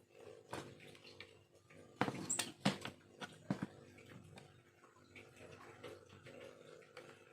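Small carving knife cutting and scraping bamboo: scattered sharp clicks and short scrapes, with a louder cluster about two to three and a half seconds in.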